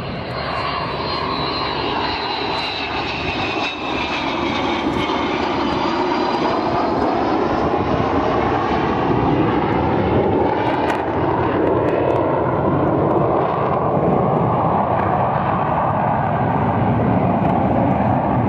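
Jet noise from an English Electric Canberra's twin Rolls-Royce Avon turbojets as the bomber flies past. A high whine falls in pitch over the first few seconds, and the sound grows steadily louder through the rest.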